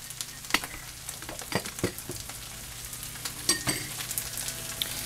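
Stir-fry of rice and vegetables sizzling steadily in a pan, with a few sharp clicks and short ringing clinks of utensils and dishes.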